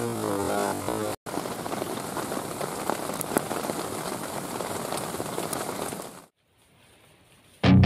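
Heavy rain, a steady hiss with scattered drop ticks, under keyboard music for about the first second. The rain cuts off suddenly about six seconds in, and loud guitar music starts near the end.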